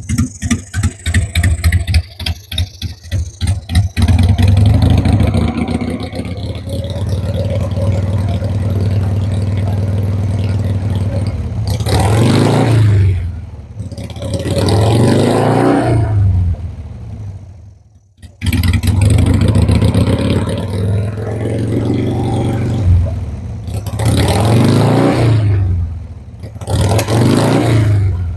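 Carbureted motorcycle engine cranked on the starter for a few seconds, catching and then running at a fast cold idle, with two spells of throttle blipping that rise and fall in pitch. It dips nearly to nothing for a moment about two-thirds of the way through before picking up again. It is being started cold after winter storage on fresh fuel and is still spitting back.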